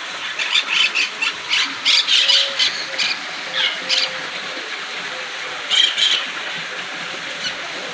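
Birds squawking: a quick run of short, harsh, high calls in the first four seconds, then a couple more about six seconds in, over a steady background hiss.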